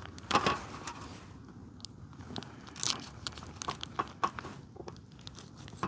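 Irregular clicks, taps and rustles of hands handling the plastic packaging of the fillets and working it open with a knife, with two louder rustling scrapes about half a second and three seconds in.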